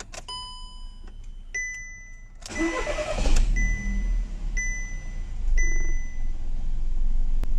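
2014 SEAT car starting: dashboard chimes on ignition, then the starter cranks briefly and the engine catches and keeps running, with a warning chime beeping about once a second. It starts normally now that the swapped fuel pump hoses, the cause of its crank-no-start fault, are connected correctly.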